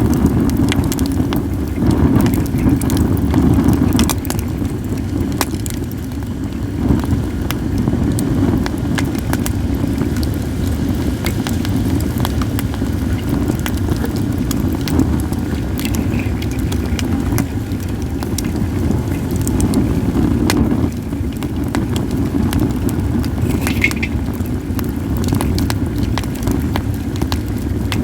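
Acacia and other firewood burning, crackling with many small sharp pops scattered through, over a steady low rumble of wind on the microphone.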